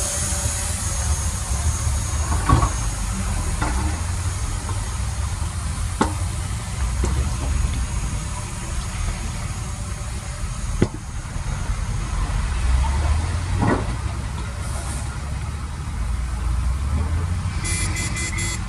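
Heavy construction machinery's diesel engine running with a steady low rumble, broken by several sharp knocks or clanks.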